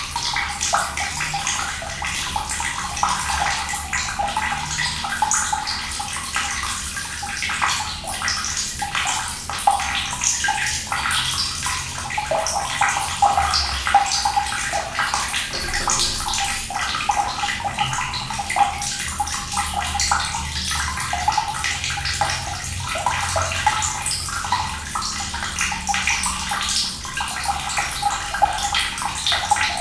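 Running water splashing steadily, a constant stream pouring with many small splashes and bubbling.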